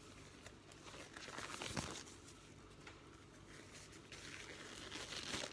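Plastic sandwich bags crinkling as they are handled, in two spells, over the faint steady hum of a running dishwasher.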